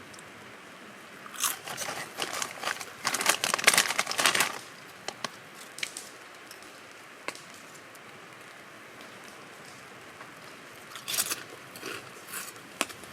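Crinkling, crunching rustles in two spells: a longer one over about three seconds near the start and a shorter one near the end, with a few single crackles between.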